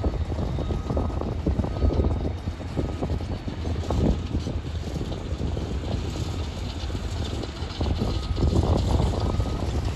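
Freight train of tank cars rolling past, a steady low rumble of steel wheels on rail, with wind buffeting the microphone.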